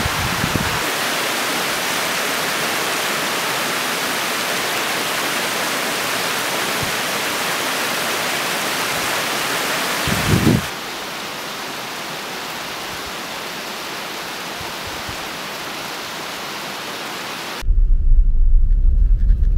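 Steady rush of flowing stream water, a dense even hiss that turns quieter and duller about ten seconds in. Near the end it gives way to the low rumble of a car engine.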